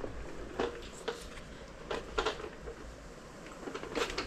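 A handful of light knocks and clicks, scattered irregularly over a few seconds.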